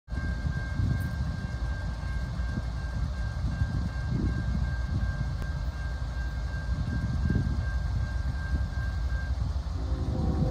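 Low rumble of an approaching Norfolk Southern diesel freight train. Near the end, the locomotive's air horn starts, a chord of several tones.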